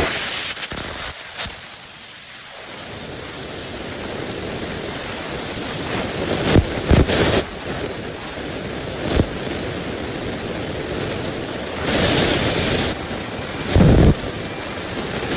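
Saw blade of a CNC cutting machine spinning and cutting, a steady loud hiss with a few sharp clicks in the middle and two louder surges near the end.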